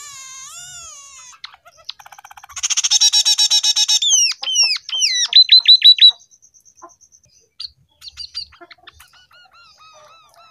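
Scaly-breasted munia (emprit peking) singing a canary-tutored song: a fast rattling trill, then a run of quick falling whistles, the loudest part in the middle, with soft short chirps before and after.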